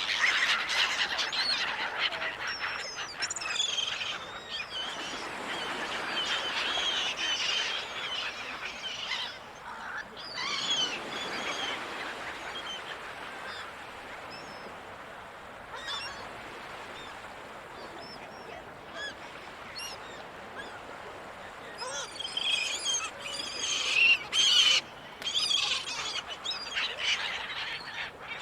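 Seagulls calling in clusters of short, wavering squawks, busiest in the first dozen seconds and again in the last few, over a steady noisy wash.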